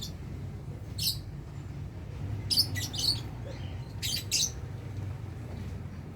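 Lovebirds giving short, shrill chirps: one about a second in, a quick run of several around the middle, and two more near four seconds. A steady low hum runs underneath.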